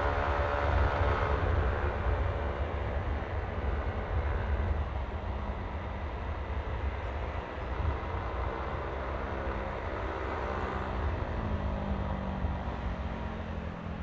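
Riding a Yamaha Aerox V3 155 cc scooter: steady wind rumble on the microphone and road noise over the running engine. A pitched drone fades out over the first couple of seconds. A steady low engine hum comes up about three-quarters of the way through.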